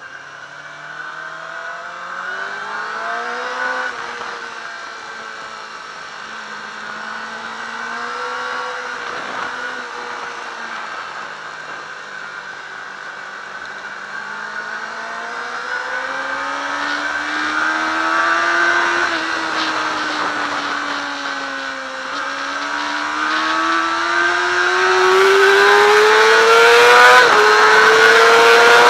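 Yamaha R6's inline-four engine heard onboard at track speed, revving up through the gears, its pitch dropping sharply at each upshift. It eases off once in the middle, then pulls hard and gets louder near the end, with wind rush building on the microphone.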